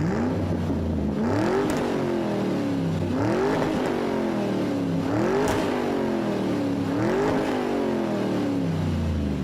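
A car engine revved four times, roughly every two seconds, each rev climbing quickly in pitch and then falling slowly back to idle.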